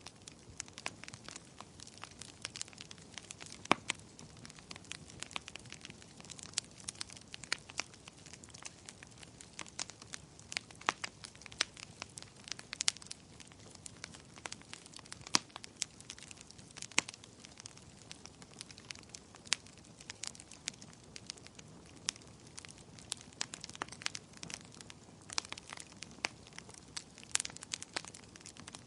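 Wood fire in a fireplace crackling: irregular sharp pops and snaps, a few louder than the rest, over a soft steady hiss of burning.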